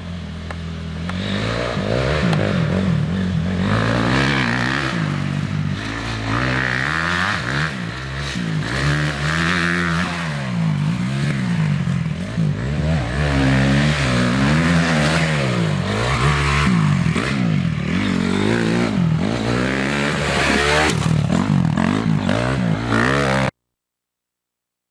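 Motocross dirt bike engine revving up and down again and again as it works around the track, its pitch rising and falling with each throttle and shift. The sound cuts off suddenly near the end.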